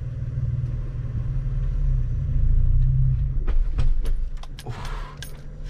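Manual Jeep's engine running, heard inside the cabin as a steady low rumble while the car is set moving in first gear. About three and a half seconds in the rumble fades and a run of sharp clicks and jingles follows, keys swinging on the ignition key ring.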